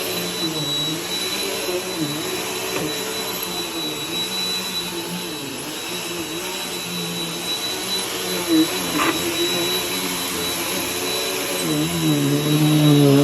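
Vacuum cleaner running continuously with a high steady whine, its lower motor note dipping and rising every second or two. There is a brief sharp knock about nine seconds in.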